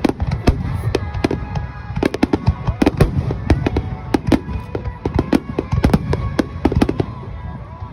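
Fireworks display: a dense barrage of aerial shells bursting, many sharp cracks and pops in quick succession over a continuous low rumble of booms.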